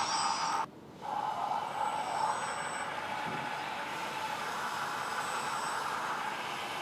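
1/14-scale RC hydraulic bulldozer running as it drives and pushes sand, a steady whine of its hydraulic pump and motors. The sound drops out briefly about a second in, then carries on evenly.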